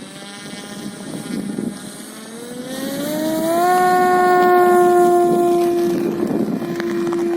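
Cessna Cardinal's piston engine and propeller running, the pitch rising steeply about two seconds in as the throttle opens, then holding a steady, loud drone.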